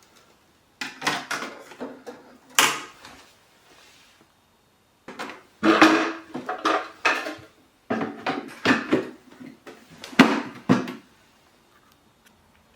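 Plastic parts of a dehumidifier being handled: several bouts of clicking, knocking and scraping, with short pauses between them.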